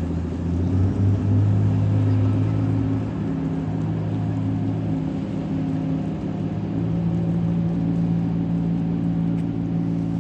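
Car being driven at a steady speed: a constant low engine and road drone.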